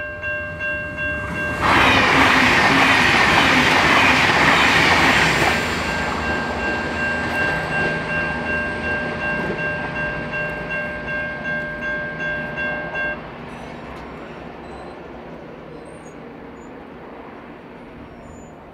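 A train passing close by. A loud rush of wheels on rail comes in about two seconds in, followed by a rhythmic clickety-clack as the cars go by, over a steady high tone. About two-thirds of the way through, the tone and the loudest noise cut off abruptly, leaving a fainter rumble.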